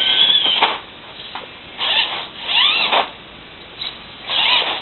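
Electric motor and drivetrain of a radio-controlled rock crawler whining in several short bursts as it is throttled on and off. Each burst rises and then falls in pitch.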